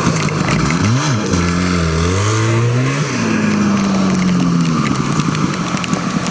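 Several vintage snowmobile two-stroke engines running at once, their pitches sliding up and down as they rev and pass, over a steady hiss.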